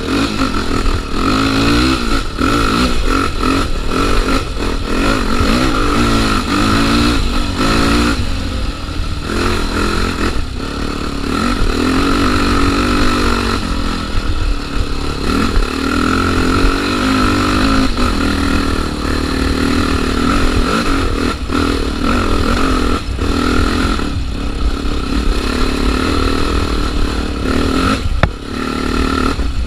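Trail motorcycle engine running under way, its pitch rising and falling again and again as the rider works the throttle, with scattered clattering knocks.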